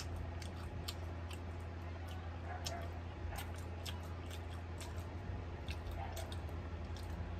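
A person chewing a mouthful of fried chicken burger with the mouth close to the microphone: irregular soft wet clicks, a few a second, over a steady low hum.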